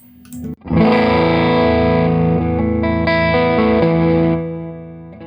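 Electric guitar strummed through the Electra MPC-8 Tube Sound module, lightly overdriven and not very dirty. A short strum about half a second in, then held chords that change a few times and ring out, with a fresh strum right at the end.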